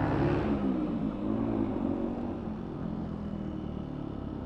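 Motorcycle engine running while riding, its note easing off and getting quieter over the few seconds, as when rolling off the throttle.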